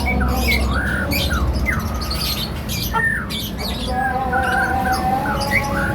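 Songbirds chirping and calling over one another: many short whistled notes and quick sliding chirps, with a steady low hum underneath.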